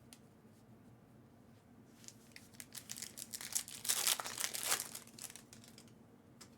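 A trading-card pack wrapper being torn open and crinkled, starting about two seconds in, loudest around the middle, then dying away.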